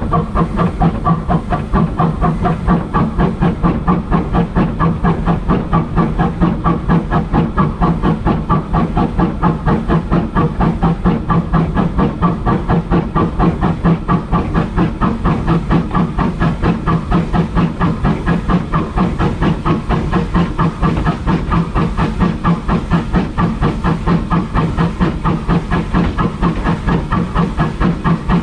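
Steam locomotive working along the line: a steady, even chuffing of about four beats a second over a continuous hiss of steam.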